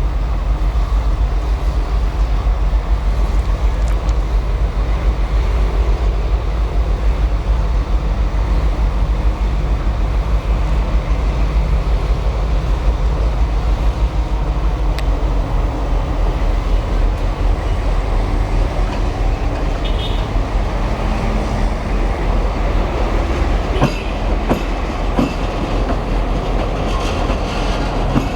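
Train running on the rails: a steady, loud rumble with wheel clickety-clack, and a few sharper clicks near the end.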